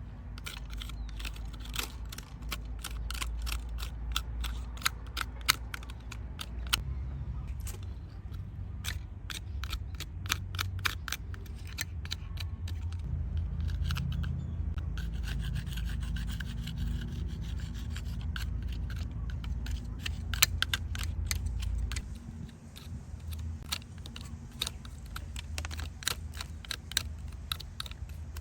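Rubbing and scrubbing on a small diecast model car, with many sharp little clicks and taps throughout over a low steady rumble.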